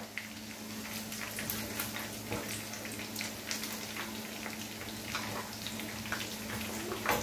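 Chicken pieces shallow-frying in hot oil in a pan: a steady sizzle with many small crackles and pops from the bubbling oil.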